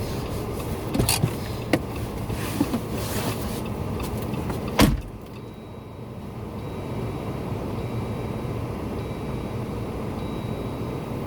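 A vehicle engine running steadily, with a few clicks and knocks and one loud thump about five seconds in, after which the sound settles to a quieter steady hum.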